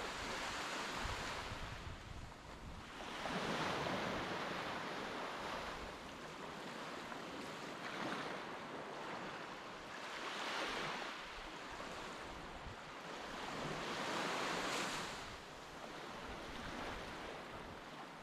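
Sea waves washing onto a beach, each one swelling up and falling away about every three to four seconds, with wind rumbling on the microphone.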